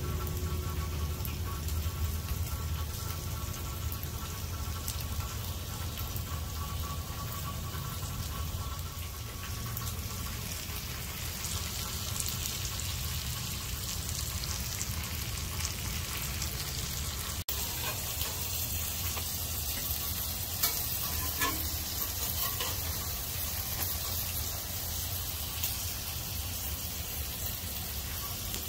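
Bacon, ham, sausage patties and pancakes sizzling on a hot flat-top griddle: a steady frying hiss, with a low rumble under it in the first half and a brief break about two-thirds of the way through.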